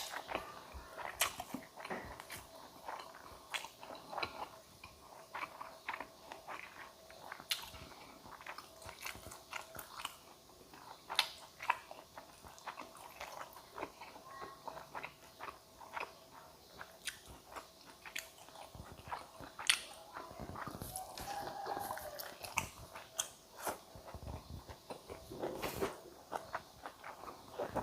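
A person biting and chewing food close to the microphone, with many small irregular crunching clicks.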